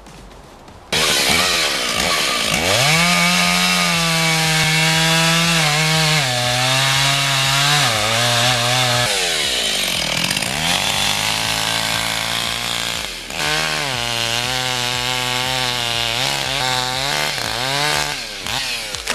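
Chainsaw starting abruptly about a second in, then running at high revs and cutting. Its pitch sags and recovers several times as the chain loads up in the wood, with a couple of brief throttle drops and pick-ups.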